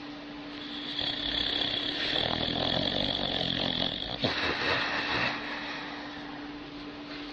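Sleeping dog snoring: one long snore lasting about three seconds, then a shorter one, over a steady hum.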